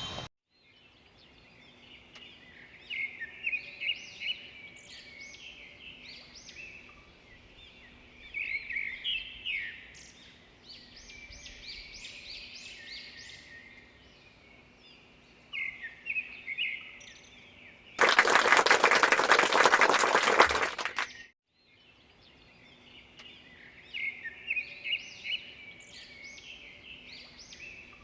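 Birds chirping in short repeated bursts over a faint steady hum. About 18 seconds in, a loud rushing burst of noise covers everything for about three seconds, cuts off abruptly, and the chirping resumes.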